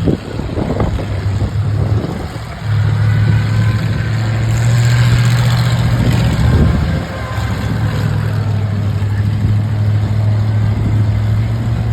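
Monster truck engine running, picking up about two and a half seconds in and growing louder with a rush of noise between about four and seven seconds, then dropping back to a steady run.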